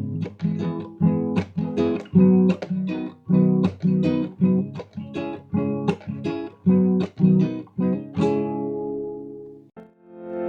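Acoustic guitar strummed with the thumb in a mute, down, up, mute, down pattern: muted percussive slaps alternate with full chords, about two to three strokes a second. About eight seconds in, a last chord is left ringing, and it cuts off shortly before a different plucked tune starts at the very end.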